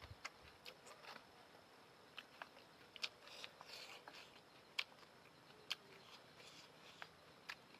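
Quiet close-up eating of noodles: scattered soft wet mouth clicks and smacks of chewing, about a dozen over several seconds, with a few brief slurpy hisses.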